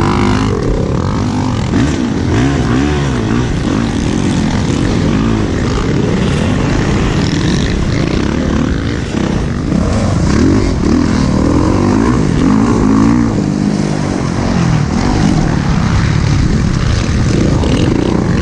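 Motocross dirt bike engines racing, revving up and down over and over as the throttle opens and closes through turns and jumps.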